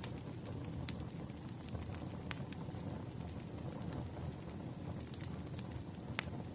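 Wood fire burning: a steady low rush from the flames with sharp crackles and pops from the burning logs, the loudest pops about one second in, a little past two seconds and near the end.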